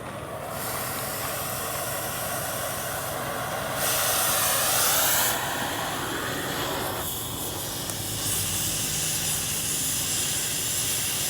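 Gas cutting or heating torch flame hissing steadily, getting louder for about a second and a half near the middle and shifting in tone later on.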